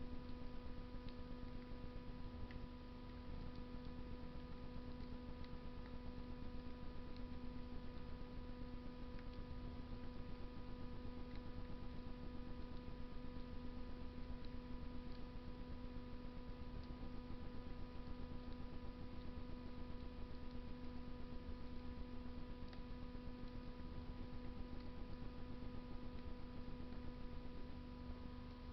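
Wood fire burning in a Russian masonry stove: a faint hiss with sparse small crackling snaps, under a steady electrical hum.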